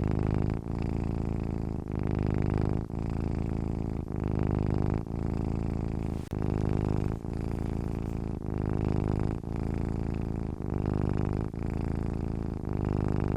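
A sleeping domestic cat purring steadily, the purr dipping briefly about once a second.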